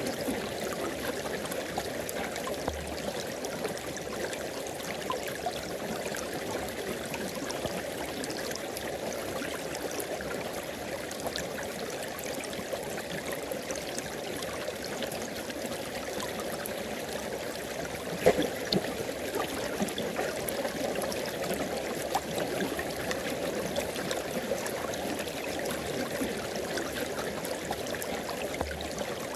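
River water flowing steadily, a continuous rushing babble with one short, sharper burst about two-thirds of the way through.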